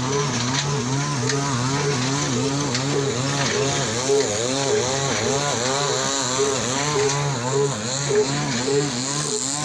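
Old slow-speed 'desi' stationary engine rated 22 HP at 300 RPM, running steadily with a rhythmic, pulsing hum that swells and falls about two to three times a second.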